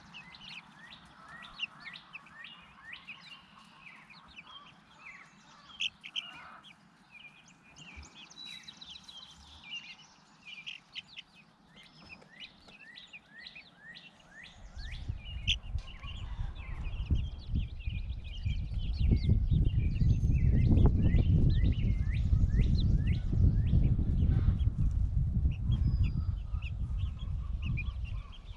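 Birds chirping in many short, high chirps. About halfway through, a loud low rumble comes in and stays the loudest sound to the end.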